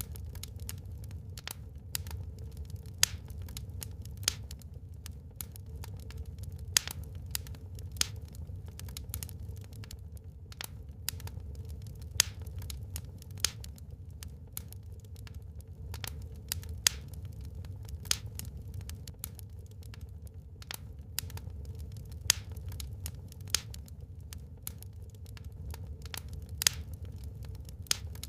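Wood fire burning in a fireplace: irregular sharp crackles and pops from the burning logs over a steady low rumble. A few louder pops stand out, at about 3, 7, 17 and 27 seconds in.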